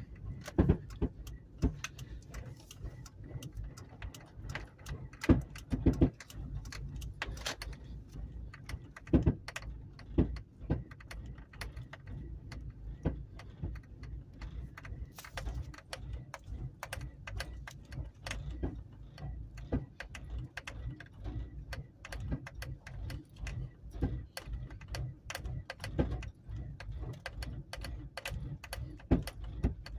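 Truck engine running with a steady low rumble and irregular sharp pops. The popping goes with the truck's loss of power.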